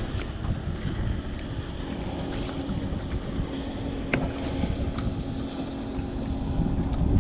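Gusty wind buffeting the microphone with a low rumble, over a steady low hum, with a single sharp tick about four seconds in.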